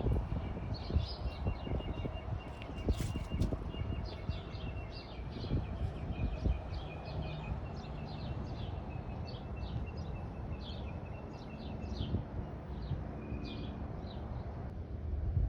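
Small birds chirping repeatedly in quick short notes, over a steady low rumble with scattered knocks.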